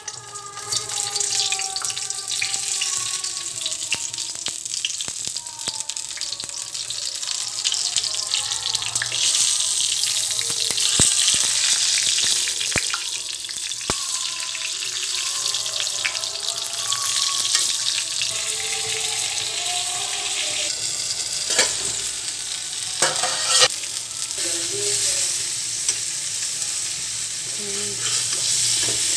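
Stuffed small brinjals frying in hot oil in a steel kadai, sizzling steadily. A spatula knocks against the pan now and then as they are turned.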